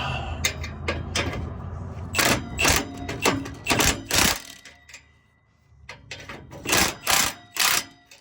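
Metal knocks and scrapes from an exhaust pipe section being worked back and forth to free it from its joint: a run of five sharp clanks, then three more near the end. A low steady hum underneath stops about halfway through.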